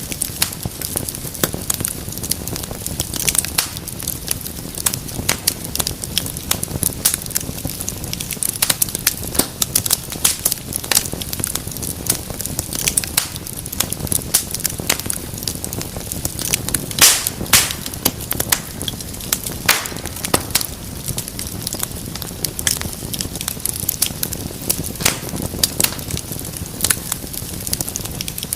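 Wood fire crackling: a steady low rumble of flames with dense, irregular sharp pops and snaps, a few louder pops around the middle.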